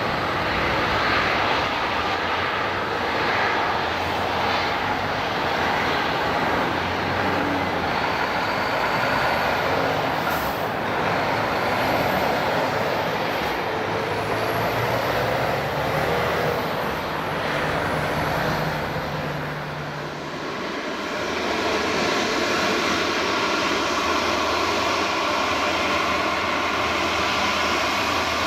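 Jet airliner engines on landing approach, a steady loud jet noise that dips briefly about two-thirds of the way through and then comes back with a steady whine.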